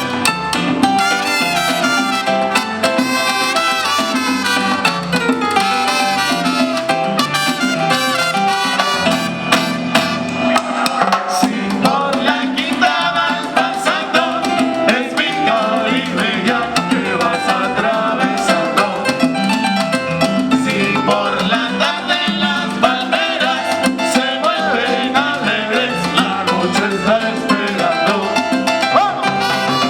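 Live salsa band playing through a PA system: brass lines with trumpets over steady Latin percussion and bass.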